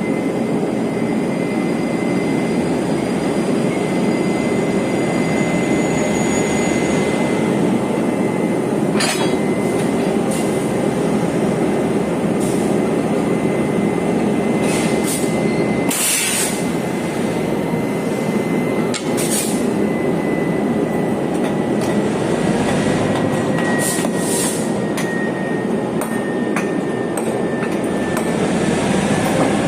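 Chu-Kuang Express passenger train running along the track: a steady rumble of wheels on rail, with scattered sharp clacks and a thin steady high squeal.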